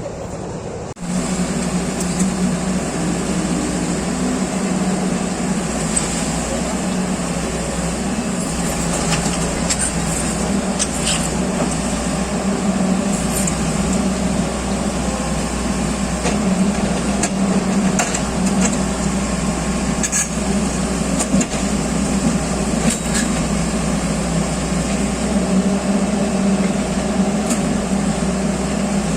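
A machine's engine running steadily with an even hum, with scattered light clicks and knocks over it.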